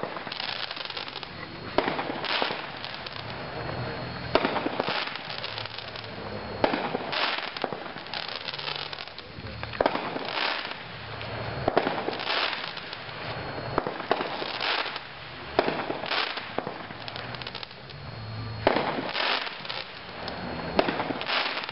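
A Great Expectation 9-shot consumer fireworks cake firing its shots one after another, each a sharp report, every second or two.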